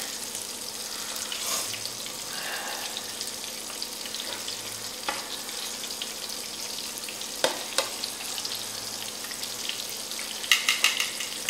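Battered shrimp deep-frying in a skillet of hot oil, a steady sizzle. A few sharp clicks from metal tongs cut in, most of them in a quick cluster near the end.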